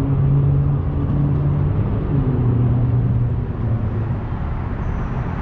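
Yamaha XMAX scooter's single-cylinder engine running steadily, its note dropping slightly about two seconds in.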